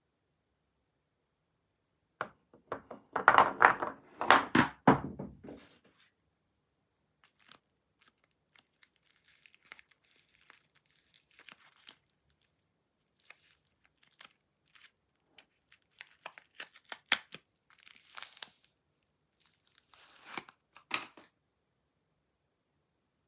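Soap wrapper being torn open and crinkled. A loud burst of tearing and crinkling comes about two seconds in and lasts some four seconds. It is followed by softer scattered crinkles and light clicks, with a few louder rustles near the end.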